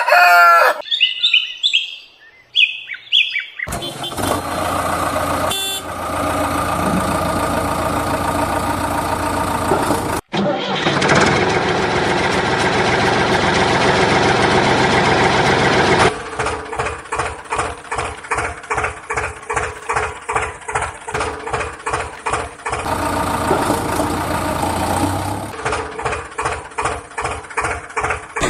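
A rooster crowing at the start, then diesel engines of the JCB 3DX backhoe loader and tractors running, heard in several cut-together stretches. In the later stretches the engine noise throbs about twice a second.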